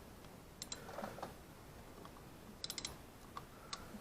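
A few faint, sharp clicks of a socket ratchet and its socket being handled and fitted together: a pair, then a quick cluster of clicks, then a couple of single ticks.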